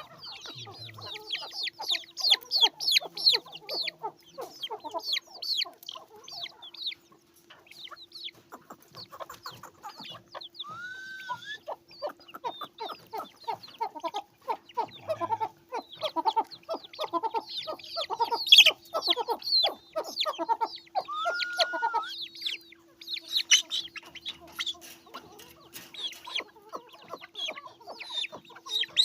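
Indian parrot-beak (Aseel-type) chickens calling: a flock of chicks peeping rapidly in high, short calls, mixed with lower clucking, over a faint steady hum.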